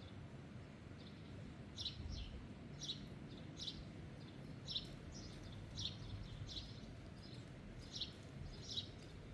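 A small bird chirping over and over, short high calls roughly once a second, over a low steady background rush.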